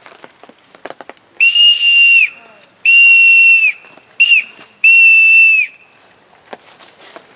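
A whistle blown in a railroad signal pattern: two long blasts, a short one, then a long one, the standard grade-crossing whistle signal. Each blast is one shrill steady note that sags in pitch as it cuts off.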